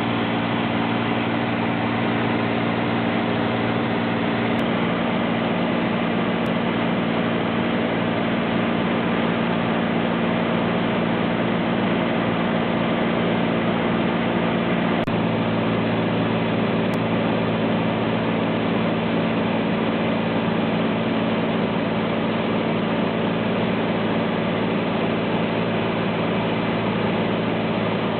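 Light airplane's engine and propeller droning steadily in flight, heard from inside the cabin, with a slight shift in tone about halfway through.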